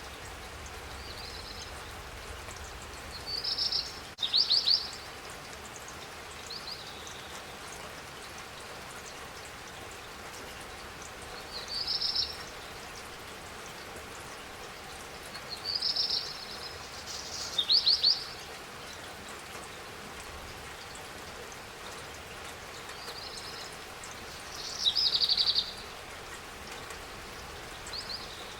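Steady spring rain falling, with a bird giving short, high chirping calls in little groups every few seconds over it.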